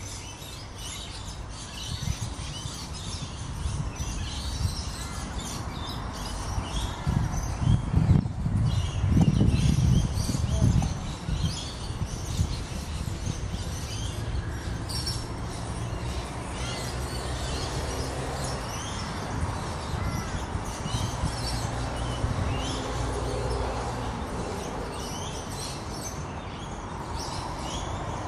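Many short, high bird chirps over a steady low rumble, which swells for a few seconds about eight seconds in.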